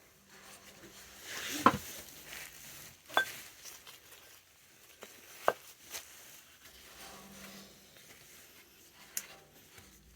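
Oil filter parts and tools being handled during reassembly: a handful of separate sharp clinks and knocks, with light rustling between them.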